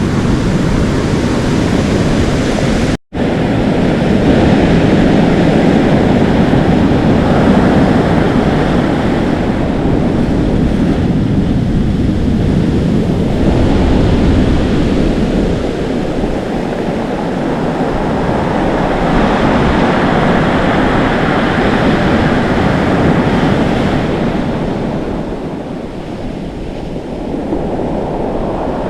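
Atlantic Ocean waves foaming, sizzling and crashing in slow swells, with wind blowing on the microphone. The sound cuts out for an instant about three seconds in.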